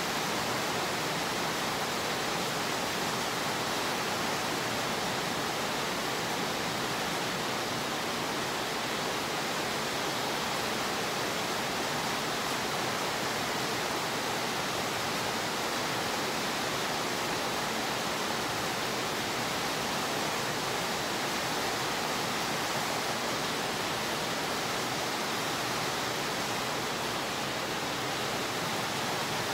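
Steady rain on a wet concrete yard: an even hiss that holds at one level throughout.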